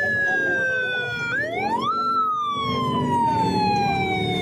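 Siren wailing: its pitch slides slowly down, sweeps quickly up about a second and a half in, then slides slowly down again.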